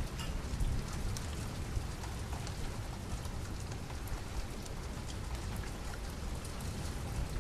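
Steady rain falling, with a continuous hiss over a low rumble and scattered faint sharp ticks of drops.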